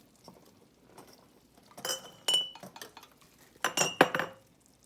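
Glass canning jars and their metal lids and rings clinking as they are handled: two short clusters of clinks with a brief ringing note, about two seconds in and about four seconds in, the second louder.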